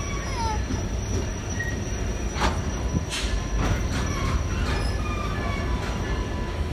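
Train cars rolling along the track with a steady low rumble of wheels on rail. Faint thin wheel squeals come and go, one sliding down in pitch at the start, and a few sharp clicks fall in the middle.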